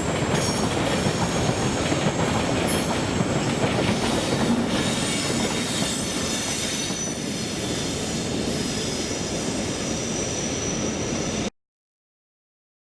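Freight train running past, its wheels squealing in thin high tones over a steady rumble, with clicking over the rail joints; the sound cuts off suddenly near the end.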